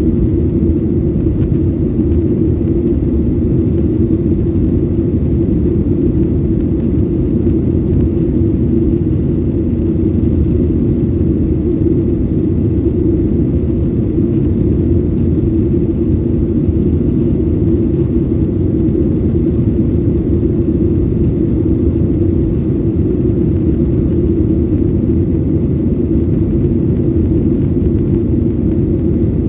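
Steady, loud cabin rumble inside a Boeing 737-800 airliner, the CFM56-7B engines and airflow heard from a window seat near the rear of the cabin; an even, low-pitched roar with no changes.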